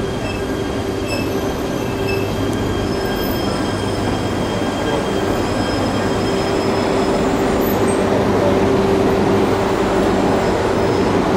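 JR East E3 series Shinkansen train rolling slowly into a station platform as it comes to a stop: a continuous rumble of wheels and running gear with a steady low whine and wheel squeal that grows louder in the second half.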